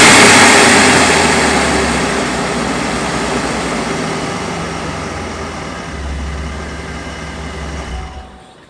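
V6 Camaro engine and aftermarket exhaust, loud at first after a hard rev, then fading steadily and dropping away shortly before the end.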